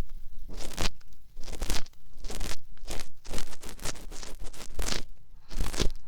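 An earpick scraping and rubbing inside the ear of a binaural dummy-head microphone, heard very close as repeated scratchy strokes, roughly two a second.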